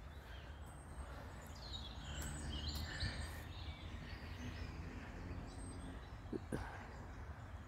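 Faint birdsong: small birds chirping and twittering in short high calls, mostly in the first half, over a low steady outdoor rumble.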